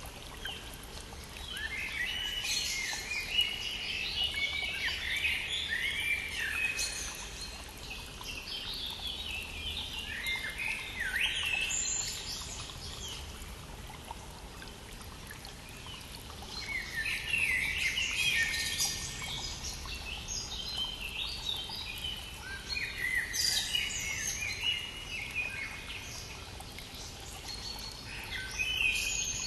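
Several songbirds singing in spring, in bouts of quick, overlapping chirps and trills separated by short lulls, over the steady rush of a stream.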